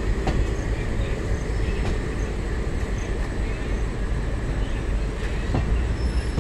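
Passenger train running, heard from on board: a steady low rumble of wheels on rails, with a few sharp clicks.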